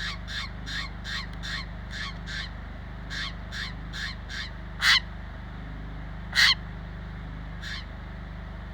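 A bird calling close by: a quick run of short, harsh calls, about three a second, then two louder single calls about five and six and a half seconds in, and a fainter one near the end.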